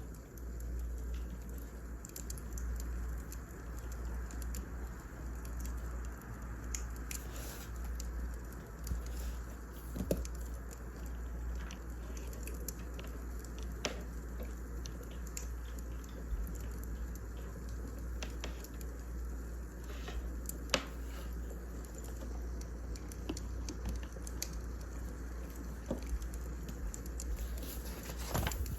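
Wood fire burning in a fireplace: a steady low rumble with scattered crackles and a few sharper pops at irregular intervals.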